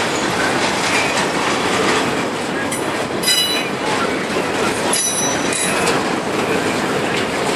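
Double-stack intermodal container train rolling past at close range: a steady rumble and rattle of the well cars' wheels on the rails, with short high-pitched wheel squeals about 3 and 5 seconds in.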